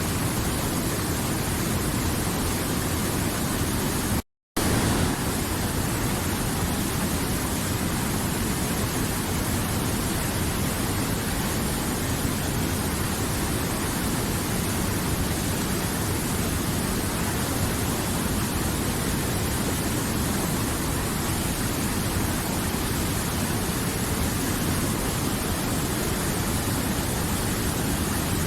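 River water flowing in a steady, even rush. The sound cuts out completely for a moment about four seconds in, then resumes unchanged.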